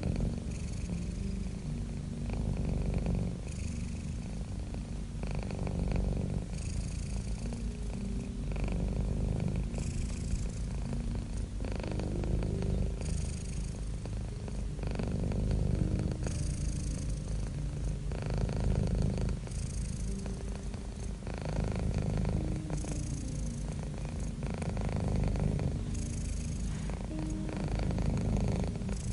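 Domestic cat purring steadily, a low purr of about 25 pulses a second that swells with each breath, roughly every three seconds.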